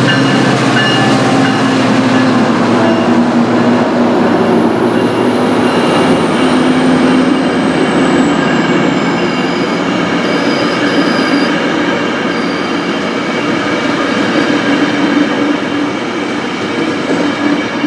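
Metrolink diesel-hauled commuter train running past on the near track. The locomotive's engine drone is loudest at first, then the bi-level passenger cars roll by with steady wheel-on-rail noise, a high whine falling slowly in pitch, and brief faint wheel squeals. It eases off gradually as the cab car goes by.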